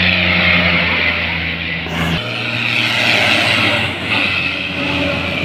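Fiat 640 diesel tractor engine running hard at speed, a steady low drone under a loud hiss. About two seconds in, the sound changes abruptly to a lower engine note.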